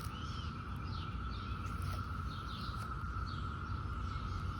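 Steady high drone of a chorus of periodical cicadas, with birds chirping over it now and then.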